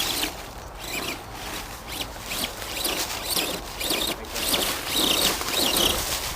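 Axial SCX10 RC crawler trucks working over rough ground, their small electric motors and gear trains whining in short irregular spurts of throttle, with scraping of tyres and chassis over the terrain.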